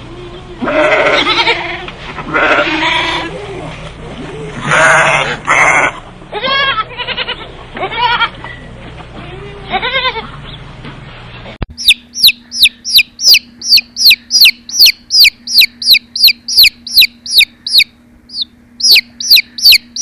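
A goat bleating loudly several times, the later calls wavering. Then, after a sudden cut, a chick peeping in a fast run of short, high, falling chirps, about three a second, with one short pause.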